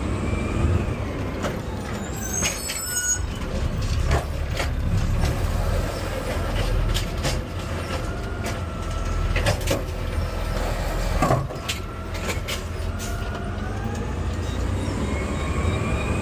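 Garbage truck running, with a steady low engine rumble and scattered knocks and clatter. A brief high-pitched squeal comes about two seconds in, and a whine rises in pitch near the end.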